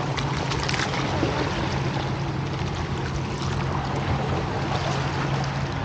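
A steady low engine drone under a constant rushing noise.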